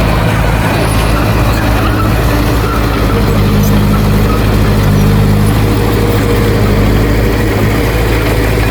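Heavy diesel engine of earthmoving machinery running steadily under load. Its note rises slightly about three seconds in.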